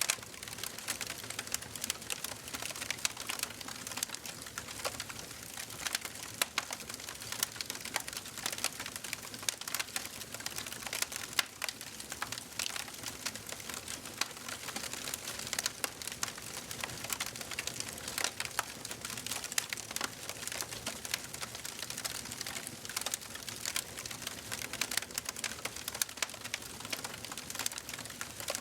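Wood fire burning in a fireplace, crackling with dense, irregular small pops and snaps over a soft hiss.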